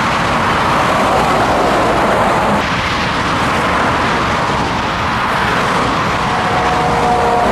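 Scania truck on the move: steady engine and road noise, with faint tones coming in about six seconds in and sliding slightly lower.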